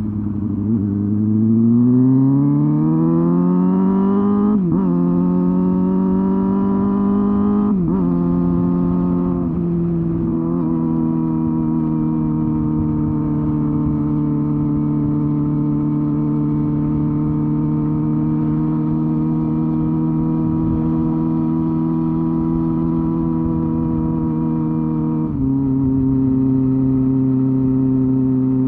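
Honda Hornet 250 inline-four motorcycle engine and exhaust under riding. The revs climb, drop briefly at about 5 s and again around 8 to 10 s as it shifts up through the gears, then hold steady at cruising speed. The pitch steps down once near the end.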